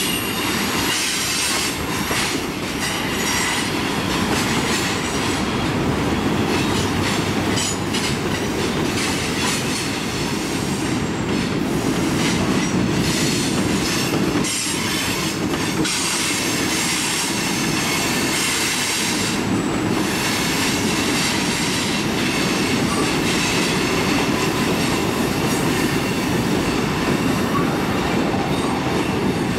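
Freight train cars rolling past: a steady rumble of steel wheels on rail, with thin high wheel squeals that come and go.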